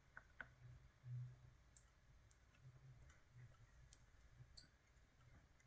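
Near silence with a few faint, sharp clicks scattered through it, small objects being handled.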